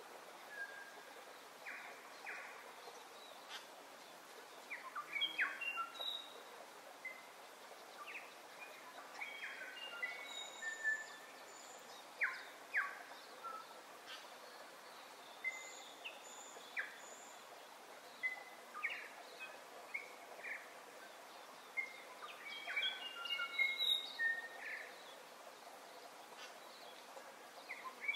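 Several birds chirping, with many short calls and whistled notes over a steady outdoor hiss. The calling is busiest about five seconds in, around twelve seconds and near twenty-four seconds.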